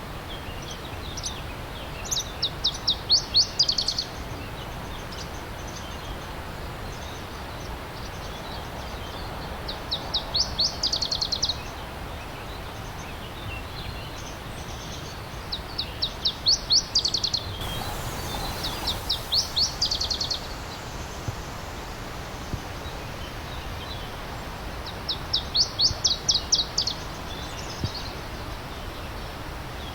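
A songbird singing short phrases of rapid, sweeping high notes, repeated several times, over the steady rush of a stream.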